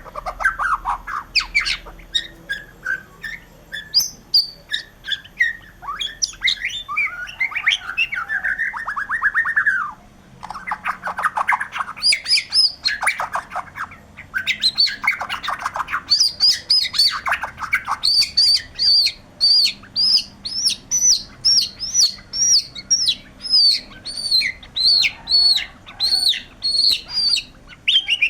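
White-rumped shama singing a long, varied song: quick rattling and twittering phrases in the first half, then a steady run of repeated high whistled notes, about two a second, through the second half.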